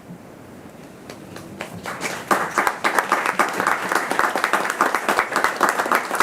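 Audience applauding, starting with a few scattered claps about a second in and swelling to full applause by about two seconds in.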